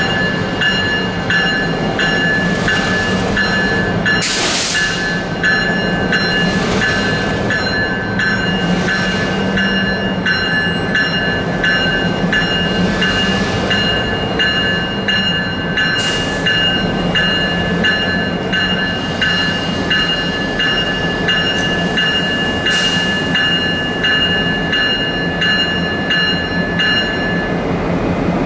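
A train rolling past with its wheels clicking over rail joints in a steady rhythm, about two to three clicks a second. A steady high-pitched whine runs over it and stops near the end.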